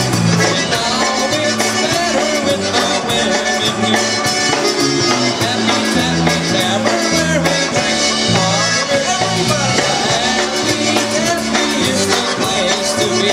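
Polka band playing live, with a bass line stepping between notes under the melody.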